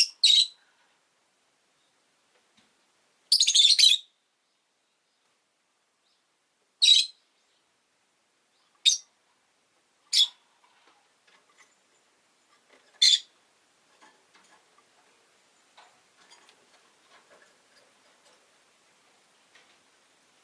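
Rosy-faced lovebirds giving six sharp, high-pitched single calls a few seconds apart, one of them longer and harsher, over about the first thirteen seconds. After that there are only faint scattered clicks and rustles.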